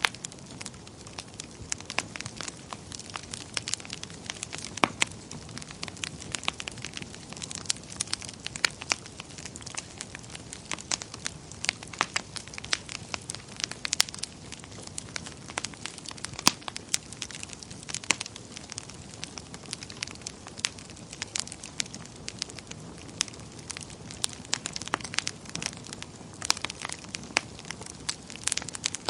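Wood fire burning in a fireplace, with steady crackling and frequent sharp, irregular pops over a low rush of flame.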